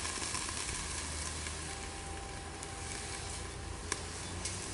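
Food sizzling and steaming on a Blackstone flat-top griddle, with vegetables steaming under a steam lid after water was squirted in: a steady hiss over a low hum, with one sharp click shortly before the end.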